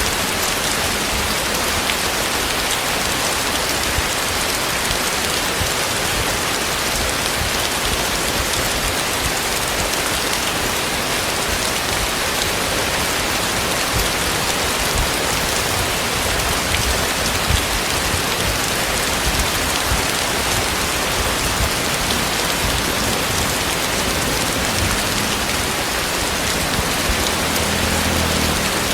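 Heavy tropical rain falling steadily, a dense hiss of drops hitting the ground and surfaces.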